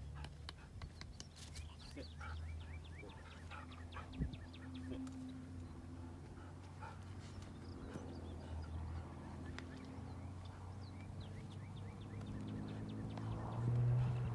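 Birds calling repeatedly in short chirps over a steady low rumble, with a louder low swell near the end.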